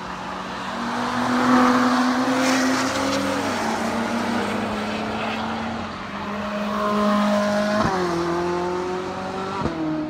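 Track cars under hard acceleration on a race circuit. A group of Nissan GT-Rs goes by, their engine notes climbing and then falling away as they pass. Then another car revs up hard, its revs dropping sharply with two upshifts about two seconds apart near the end.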